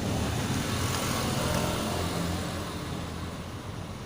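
Small motorcycle engine running steadily, a little louder about a second in and easing off towards the end.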